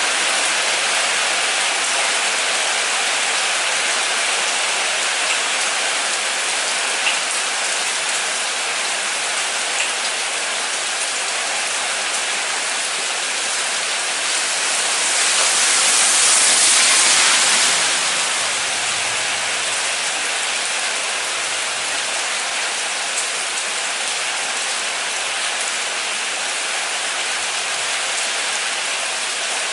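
Steady, heavy rain falling: a dense, even hiss. A low hum fades away at the very start, and about halfway through the hiss swells louder for a few seconds before settling back.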